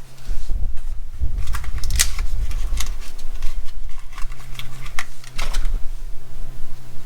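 Small hard parts being handled, giving a scatter of sharp clicks and rattles, over a steady low hum.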